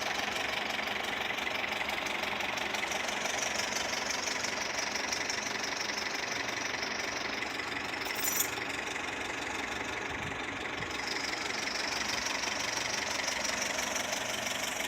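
2013 Toyota Etios engine idling steadily, its exhaust note the sound the owner points to as odd, in a car that smells of burning after refuelling. A brief high hiss or click about eight seconds in.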